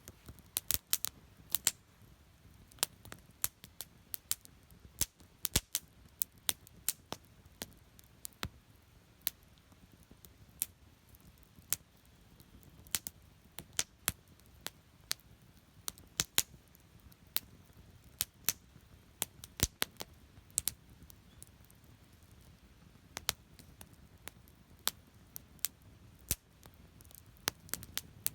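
Wood campfire crackling: sharp, irregular pops and snaps of burning wood, a few every second at times and sparser at others, over a faint low rumble.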